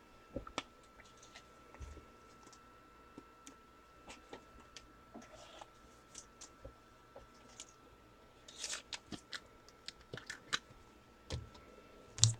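Faint handling of trading cards: scattered light clicks and short rustles as cards are slid against each other and set down, growing busier near the end.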